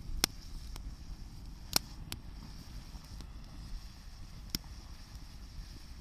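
Wood campfire crackling, with a handful of sharp, separate pops spread across a few seconds.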